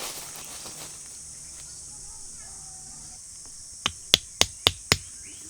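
Steady high-pitched chorus of insects in the forest. Near the end, five sharp knocks follow one another quickly, about four a second.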